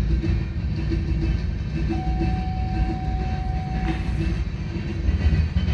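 Norfolk Southern manifest freight cars rolling past with a steady low rumble, and a single steady high tone for about two seconds in the middle.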